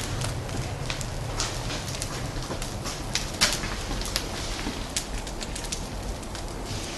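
Wood fire crackling in a fireplace, with irregular sharp pops and snaps throughout and one louder snap about three and a half seconds in.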